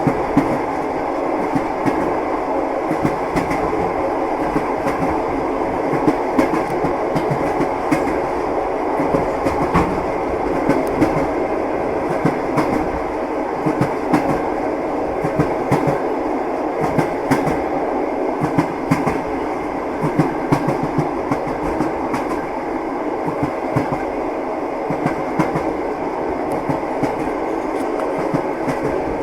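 Moving passenger train: a steady rumble of the running carriage with the wheels clacking over the rail joints again and again.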